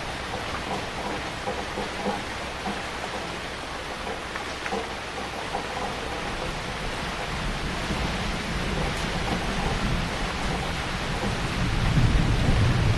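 Heavy rain falling steadily, with a low thunder rumble building in the second half and loudest near the end.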